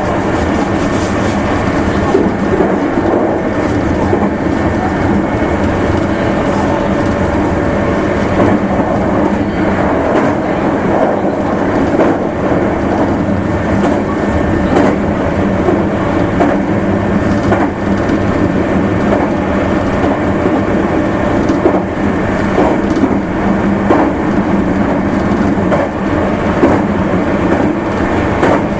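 Meitetsu limited express electric train running at speed: a steady rolling rumble of wheels on rail, with scattered clacks over rail joints and a faint steady tone under it.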